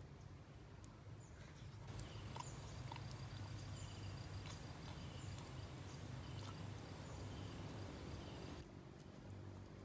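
Insects trilling steadily in a high, even band, much louder from about two seconds in until shortly before the end, with a few faint clicks and short chirps.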